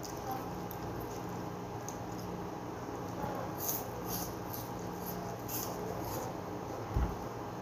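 Close wet chewing and lip-smacking clicks of someone eating pieces of fresh fruit, with a cluster of sharp clicks in the middle, over a steady low hum. A single dull thump comes near the end.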